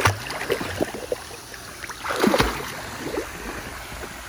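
Pool water sloshing and splashing in irregular bursts as a Great Dane wades and swims, the biggest splash about two seconds in, over the steady rush of a pool waterfall.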